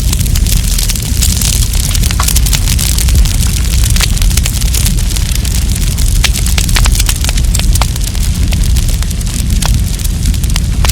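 Wood campfire burning: a steady low rumble and hiss of the flames with frequent sharp, irregular crackles and pops of the burning wood.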